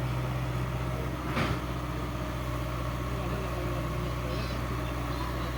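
Diesel engine of a tractor or excavator running steadily at low revs, with a single knock about a second and a half in.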